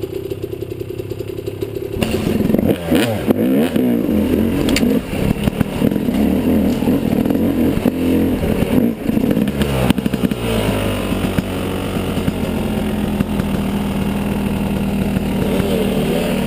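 Yamaha 250 dirt bike engine idling, then about two seconds in the throttle opens and it rides off, the revs rising and falling, with clattering. From about ten seconds in it runs more steadily.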